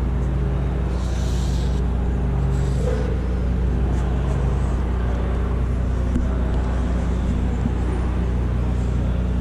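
A steady low machine hum, several constant low tones holding level throughout.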